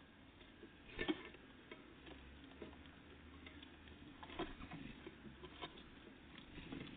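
Irregular light tapping and clicking, the loudest about a second in: small birds, tits, pecking and landing at a feeder.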